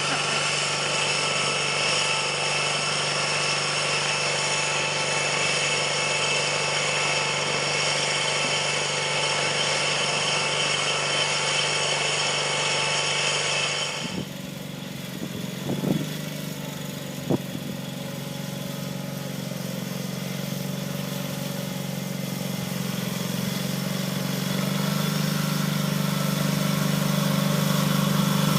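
Garden tractor engine running steadily. About halfway through the sound changes abruptly and drops in level, with two short knocks, then the engine grows louder again near the end.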